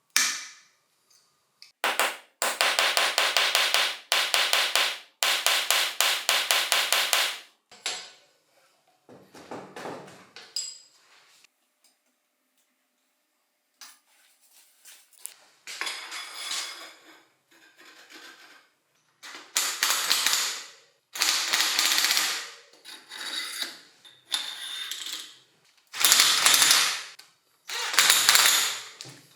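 A ratchet mechanism clicking rapidly in three runs of a second or two each. It is followed by several louder noisy bursts of about a second each from bike-part work.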